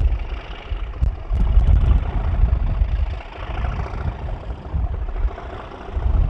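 Class 37 diesel locomotive 37421's English Electric V12 engine working under power, with wind buffeting the microphone in heavy low gusts.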